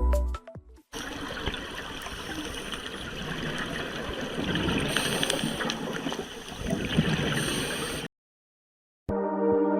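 Gurgling water with a fine crackle, which cuts off abruptly about eight seconds in. After a second of silence, a ringing, gong-like music tone starts near the end.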